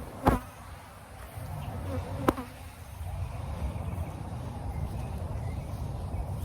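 Honeybees buzzing around an open hive during an inspection, with two sharp knocks a couple of seconds apart near the start.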